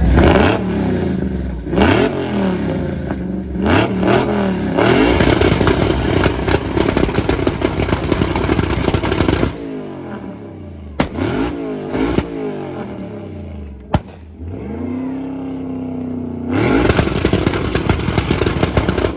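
Car engine revved hard over and over for a noise contest: long high revs for the first nine seconds or so, a few quick blips, a sharp crack about fourteen seconds in, a rev held briefly, then another long run of high revs near the end.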